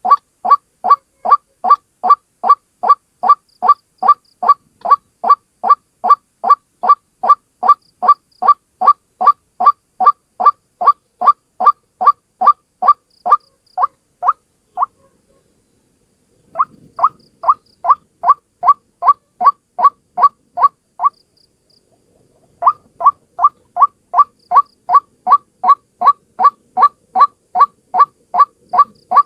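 A single white-breasted waterhen's call, short rising notes repeated about two and a half times a second, played as a trapping lure. The run breaks off twice, for over a second about halfway through and again about three-quarters through.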